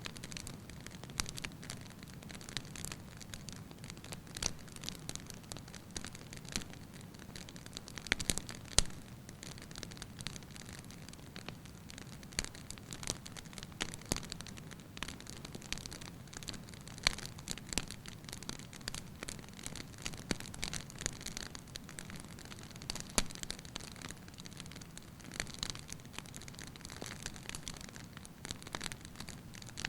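Log fire crackling: frequent irregular sharp pops and snaps over a steady low rumble of flames.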